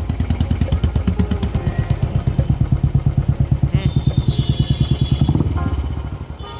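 Royal Enfield Bullet BS6 single-cylinder engine idling through an aftermarket exhaust with an even thump of about nine beats a second. Near the end it falters and dies away as the engine shuts off by itself.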